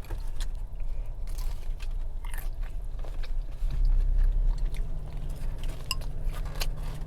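A person chewing a piece of carrot close to the microphone, with crisp crunches and wet mouth clicks scattered throughout. A steady low hum runs underneath and gets louder about halfway through.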